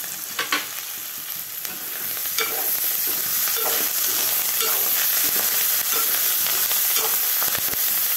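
Sliced onions, green chillies and curry leaves sizzling in hot oil in a metal pan, with a metal spatula scraping through them about once a second as they are stirred. The sizzle grows louder about two seconds in.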